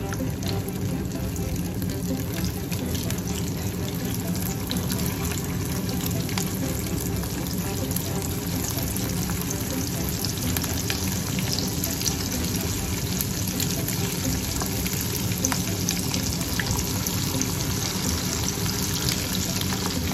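Egg-coated beef tikka boti pieces sizzling in hot ghee in a frying pan: a steady sizzle with many fine crackles as more pieces are dropped in one after another.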